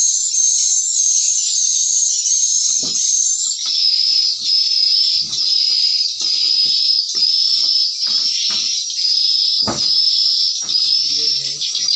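Recorded swiftlet calls played through the tweeter speakers of a swiftlet house: a continuous, shrill high chirping that repeats a short pattern about twice a second, pitched slightly lower after a few seconds. Soft knocks sound underneath, with one louder thump late on.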